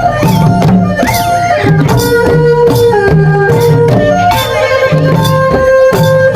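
Loud Khmer traditional folk music for Sadam dancing: drums keep a steady rhythm under a melody of held notes.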